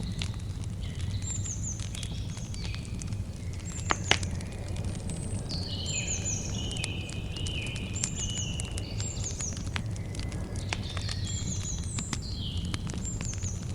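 Campfire crackling, with scattered sharp pops and a louder pair about four seconds in, over a steady low rumble. Birds call throughout in short high chirps and quick falling whistled notes.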